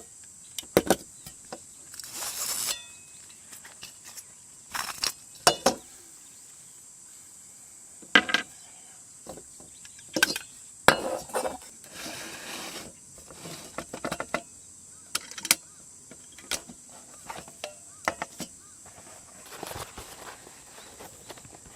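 Scattered clinks, knocks and rustles of camp cooking gear being handled, with a steady faint high-pitched insect chirr behind them.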